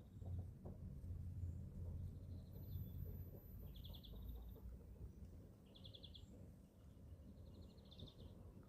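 Young chickens giving short, high, trilled chirps, four of them spread a second or two apart, over a faint low rumble.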